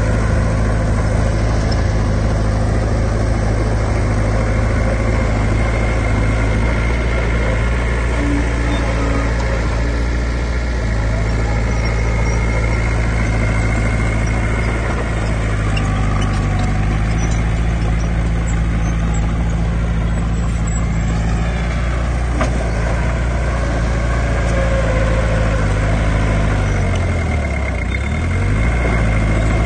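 Diesel engines of heavy earthmoving machinery running steadily, with the engine pitch dropping and rising again near the end.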